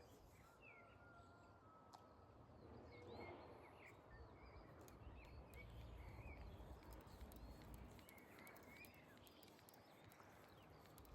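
Faint birdsong of small birds chirping here and there, over a low outdoor rumble.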